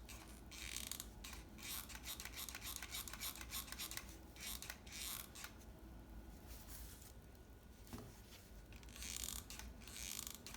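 Hot glue gun being squeezed: the trigger's feed mechanism clicks and creaks in rapid runs of faint ticks as it pushes the glue stick through, with a pause of a couple of seconds before a last run near the end.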